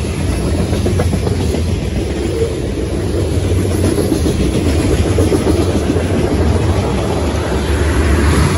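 Freight train of tank cars rolling past: a steady rumble of steel wheels on rail.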